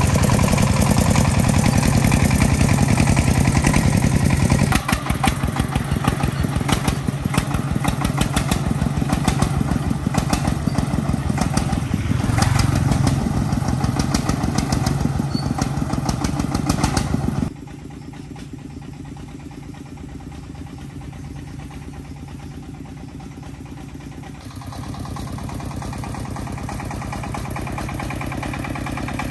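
Engine of an agricultural transport vehicle running steadily with an even pulsing beat. About two-thirds of the way through it suddenly drops to a quieter running, then picks up a little again near the end.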